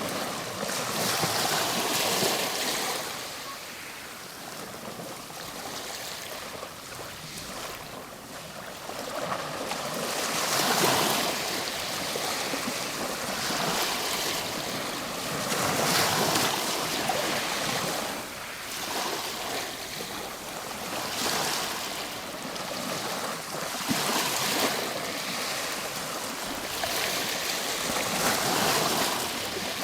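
Ocean waves breaking and washing on a shore in a steady rush of surf. It swells and ebbs every few seconds as each wave comes in.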